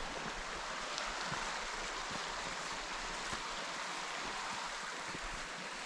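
Small mountain stream flowing, a steady even rushing of water.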